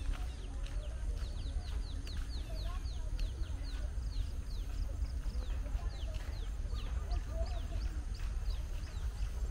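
Birds calling: a rapid run of short, high chirps, each falling in pitch, about two or three a second, with a few lower clucking notes mixed in, over a steady low rumble.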